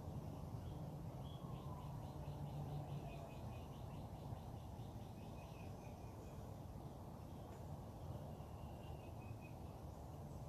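Wild birds calling faintly: a quick run of repeated high notes lasting a few seconds, and a few short whistled calls, over a steady low background rumble.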